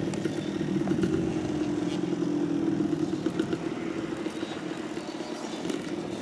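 Small motorcycle engine running at fairly steady revs, getting louder about a second in and easing off over the last few seconds as it passes.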